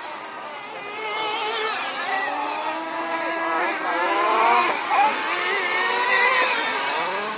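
Several engines of off-road vehicles revving at once, their overlapping pitches rising and falling as they accelerate and slow.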